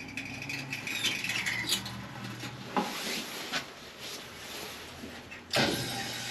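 Scattered clicks and rubbing from handling the boiler controls. About five and a half seconds in, water suddenly starts rushing steadily: the steam boiler's automatic water feeder adding water.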